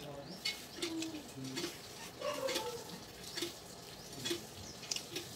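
Close-up mouth sounds of a person eating rice with the hand: chewing with scattered wet clicks and lip smacks, along with a few short low hums.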